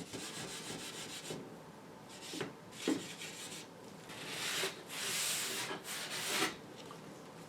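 Triple-aught (000) steel wool wet with naphtha rubbed lightly over a shellac-finished radio front panel: a soft, scratchy hiss in uneven strokes, loudest about two-thirds of the way through. The rubbing strips the upper layers of the old shellac.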